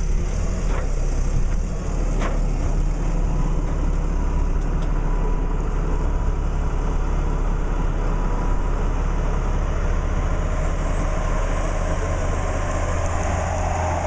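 Tow truck engine running steadily, a low hum with a faint steady whine, as the boat trailer is loaded onto it.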